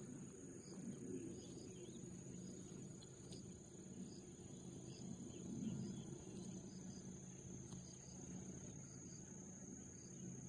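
Faint steady insect chorus, crickets trilling continuously with scattered short chirps, over a low steady hum.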